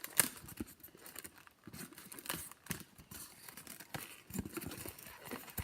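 A long latex modelling balloon being twisted and handled: irregular rubbery rubbing and crinkling with brief squeaks.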